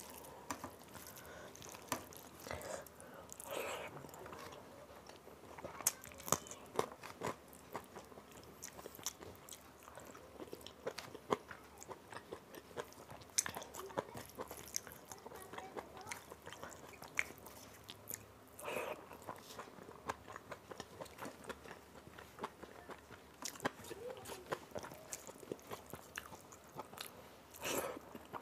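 Eating sounds of rice and dal eaten by hand: chewing and wet mouth sounds with many sharp little clicks, plus squishes of fingers mixing the rice into dal on a steel plate.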